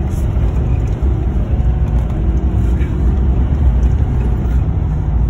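Isuzu D-Max truck engine running steadily at a low, even rumble just after being started.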